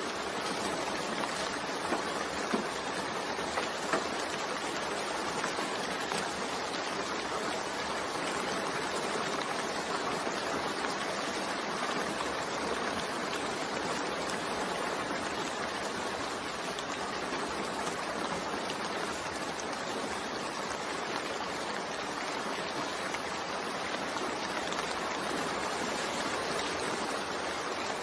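Steady rain falling, an even hiss, with a few sharper drop taps in the first few seconds.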